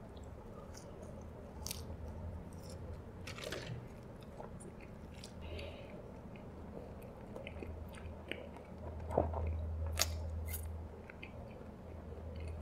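Close-miked chewing of a mouthful of french fries dipped in a creamy white sauce, with many soft wet mouth clicks and smacks. Two sharper clicks come about three-quarters of the way through.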